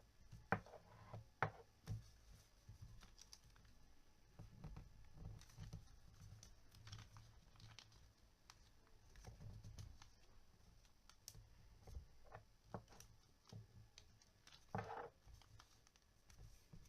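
Near silence: low room hum with faint scattered clicks and small taps, a couple of them a little louder.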